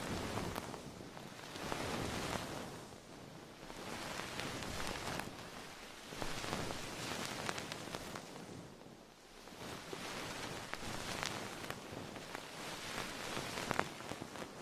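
Close-miked rustling with small crackles, swelling and fading in slow waves about every two seconds.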